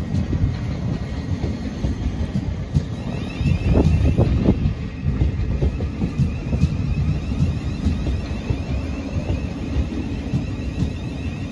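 Thameslink Class 700 electric multiple unit rolling slowly along the platform: a steady rumble of wheels on rail with irregular knocks, loudest about four seconds in. A faint high electric whine joins about three seconds in.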